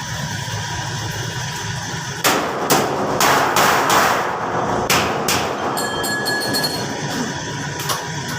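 A run of sharp knocks and a rattling clatter, loudest from about two to five seconds in, over a steady hum, with a brief ringing squeak just after.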